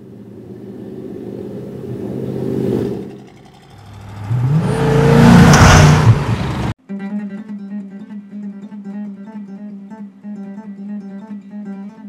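A car engine revving up, rising in pitch and getting louder, then cut off abruptly about seven seconds in. Guitar music with a steady, evenly repeating strummed pattern follows.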